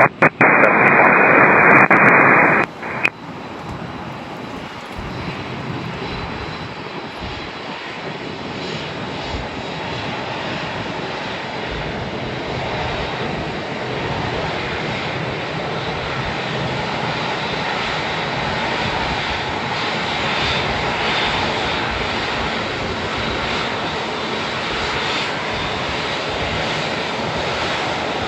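Airbus A380 jet engines running at taxi power, a steady jet noise that slowly grows louder. It opens with about three seconds of loud radio static hiss.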